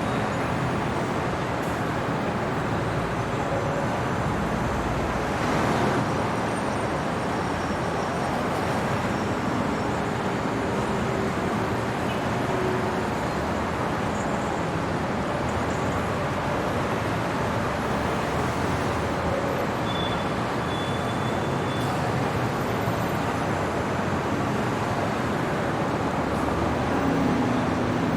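Steady city traffic noise at night, a continuous wash of passing vehicles with small swells as some pass closer.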